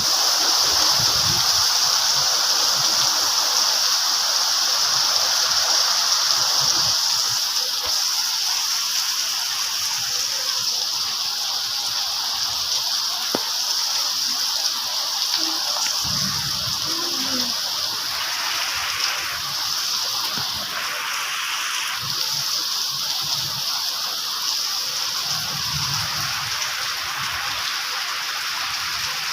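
Steady rushing of water, an even unbroken hiss that eases slightly about a third of the way through.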